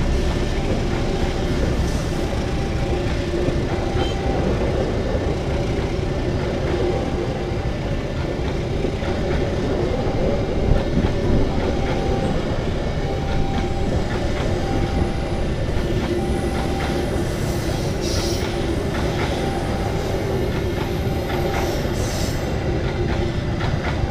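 Passenger train passing over a level crossing: steady rumble of wheels on rail with some clacking over the joints. Through it, the crossing's warning signal sounds a short tone about once a second.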